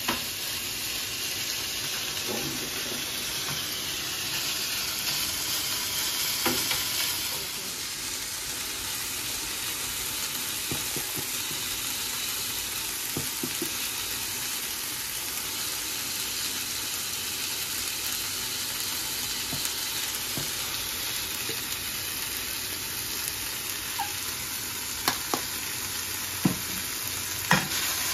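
Food sizzling as it fries in oil in a pan while being stirred. The hiss is steady and drops a little about seven seconds in, and a few sharp knocks come near the end.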